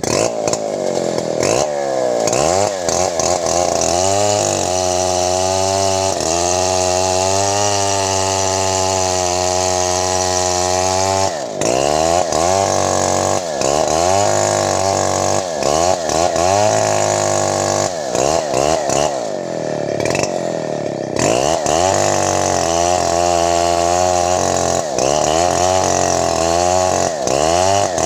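Two-stroke chainsaw engine running loud, its speed rising and falling over and over, with a couple of stretches held at steady high speed. The owner calls this sound very annoying and ties it to the chainsaw's CDI ignition.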